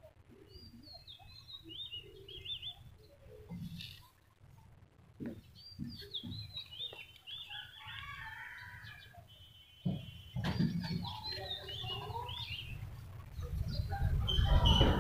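Small birds chirping and twittering in many short, high, quick calls. Under them runs a low rumble that gets louder after about ten seconds and again near the end.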